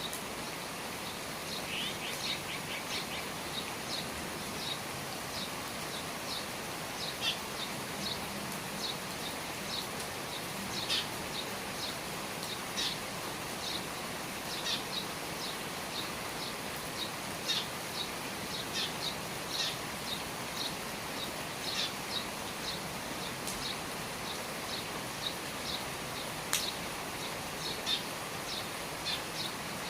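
Steady rain falling under the eaves, with small birds chirping short high notes over it, scattered irregularly, and a quick run of notes about two seconds in. A couple of sharp clicks near the end.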